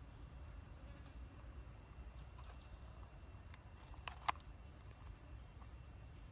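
Faint outdoor ambience: a thin, high insect buzz that comes and goes over a low, steady rumble, with two sharp clicks in quick succession about four seconds in.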